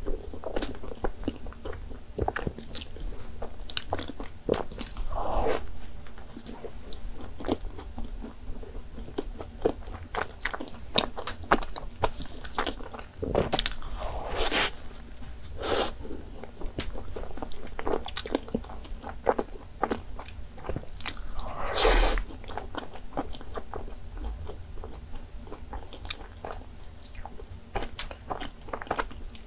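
Close-miked biting and chewing of a soft cream-filled doughnut: irregular wet mouth clicks and smacks, with a few louder ones about halfway through.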